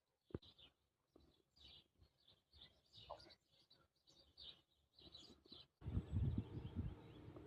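Faint, intermittent bird chirps, then about six seconds in a louder low rumble with a steady hum starts.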